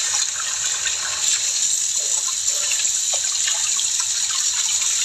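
Water running steadily from a tap in a continuous hiss, with a few faint light ticks.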